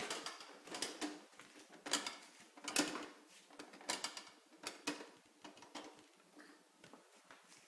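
Toy trucks being handled and knocking against each other and hard surfaces: a run of light clacks and knocks, about one or two a second, fewer and softer in the last couple of seconds.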